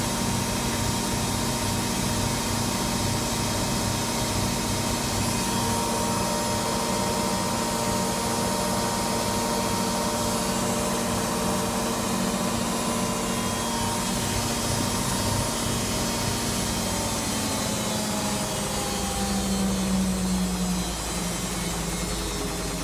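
Electra AWF683 washing machine spinning: a steady motor whine over a low rhythmic drum rumble. Past halfway the whine falls in pitch as the drum slows down at the end of the spin, with a brief lower hum near the end.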